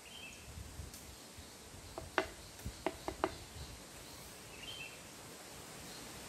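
Gusty wind rumbling on the microphone, with a quick run of about five sharp knocks or clicks a couple of seconds in, the second the loudest. Two brief high chirps sound near the start and near the end.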